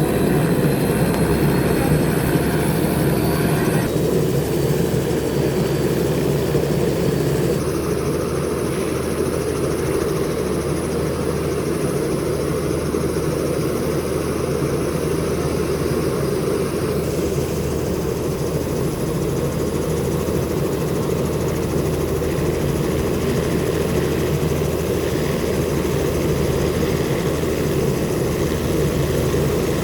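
Helicopter engine and rotor running steadily, a loud constant drone, with a few abrupt shifts in its tone.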